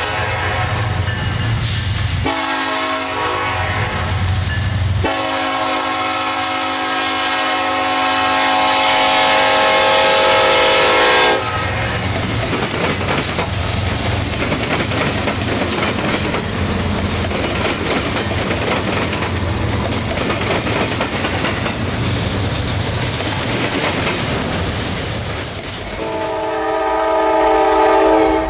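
Locomotive air horn sounding three long blasts, the last held about six seconds, then the train's wheels rolling past over the rails with a steady clatter. Near the end the horn sounds again.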